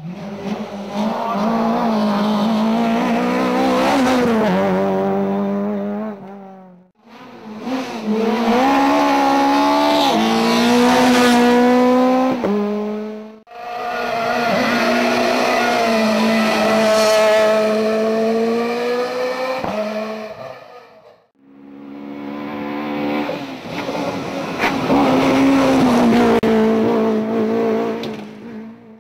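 Rally cars at full speed on a special stage, engines revving hard, the pitch climbing and dropping back with each gear change. Four separate passes follow one another, each breaking off suddenly.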